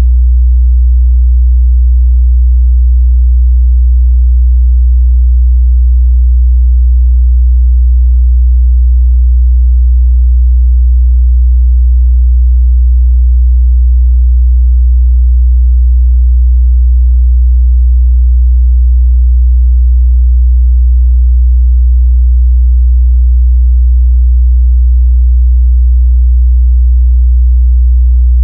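A continuous, steady 61 Hz sine-wave test tone: a pure, loud low bass hum that holds one pitch without change.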